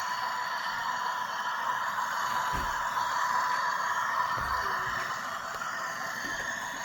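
Märklin HO-scale model train running on the layout: a steady hiss with a faint steady tone under it, and two soft low thumps in the middle.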